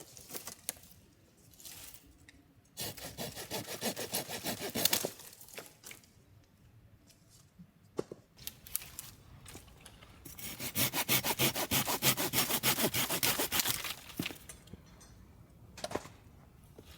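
Silky GomBoy folding saw cutting wood in two bouts of quick back-and-forth strokes, the second bout longer, with a few light knocks in between.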